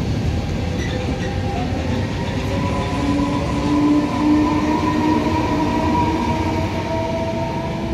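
Regional train pulling out, pushed by a Trenitalia E464 electric locomotive at the rear: the coaches and then the locomotive roll past close by with a steady low rumble. A whine of several steady tones from the locomotive's electric traction equipment joins about three seconds in, as the locomotive comes past.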